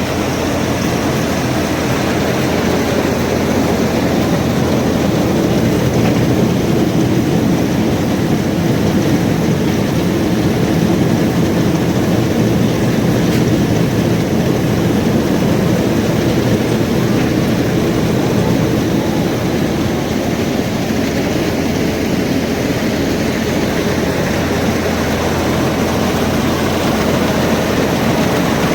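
Tractor-powered paddy thresher running steadily: the tractor engine and the threshing machine make a continuous loud mechanical din.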